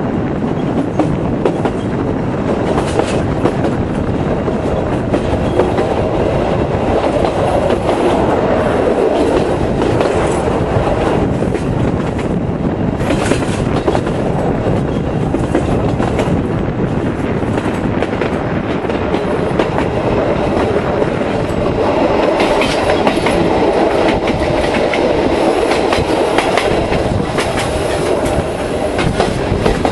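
Carriage of a tourist train running along its track at steady speed, with a continuous rumble and a few sharp clicks of the wheels over the rails.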